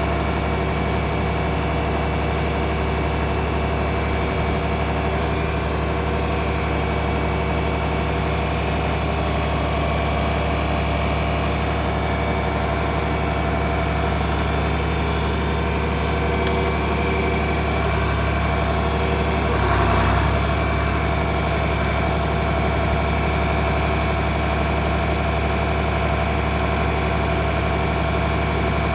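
Tractor engine idling steadily, with one brief louder surge about twenty seconds in.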